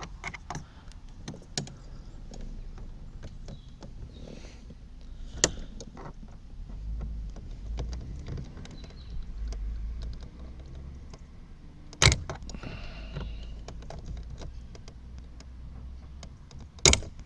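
Hand tools clicking, scraping and tapping against the plastic trim of a Ford Mondeo rear door as a cover is prised off. There are sharp knocks about five, twelve and seventeen seconds in.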